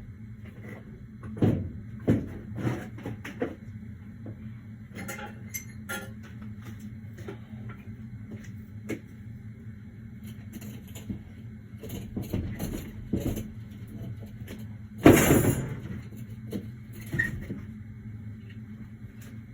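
Scattered knocks and clunks of tools and materials being handled and set down, the loudest a heavy thump about fifteen seconds in, over a steady low hum.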